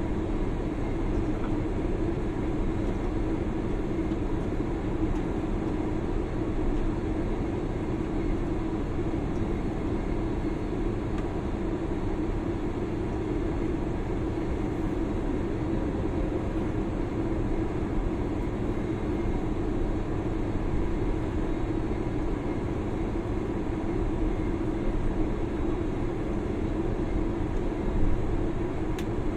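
Steady cabin noise of a jet airliner on the ground after landing, its engines running at idle as it taxis, with a low rumble and a constant hum; a brief louder bump comes near the end.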